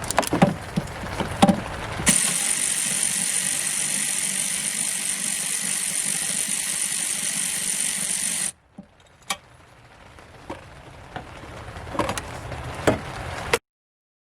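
Hand tools clicking and knocking on metal as an alternator's lower mounting bolt is worked loose. A steady hiss sets in about two seconds in and stops suddenly after about six seconds, and more scattered clicks follow.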